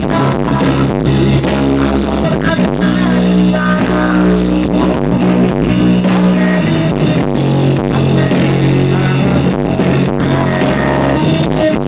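Music played loud through a PA sound system during a sound check, with strong sustained bass notes under a busy instrumental mix.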